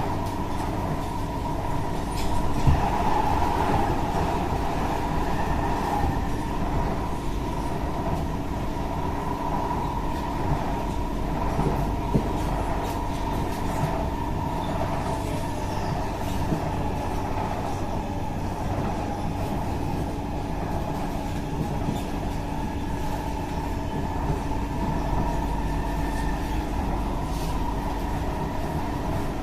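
Cabin running noise of an SMRT C151A electric train cruising between stations, heard from inside the car: a steady rumble of wheels on rail with a constant hum.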